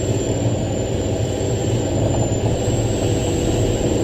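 Big off-highway rock truck's diesel engine running hard under full throttle, a steady heavy drone with a thin high whine over it, as the truck labours up a hill.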